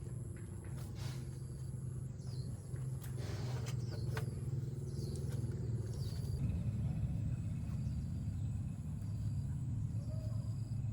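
An engine running steadily with a low, even hum, a little louder in the second half. Faint short bird chirps come and go above it.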